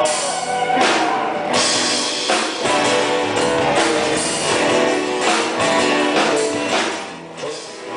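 Live band playing an instrumental passage, guitar over a drum kit, with no singing, easing off briefly near the end.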